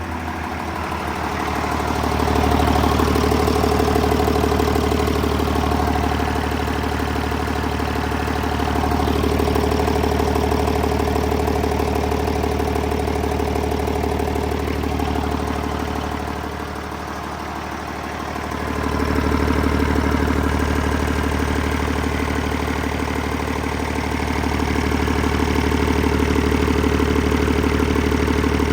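2015 Cummins ISL 330, an 8.9-litre inline-six diesel, running steadily at idle. It gets quieter for a few seconds just past the middle, then comes back up.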